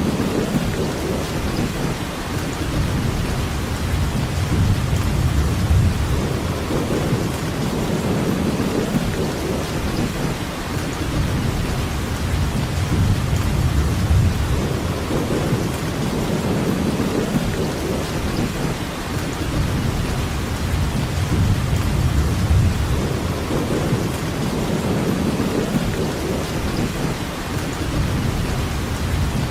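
Steady rainfall, an even hiss of many drops, under a low rumble that swells and fades every few seconds.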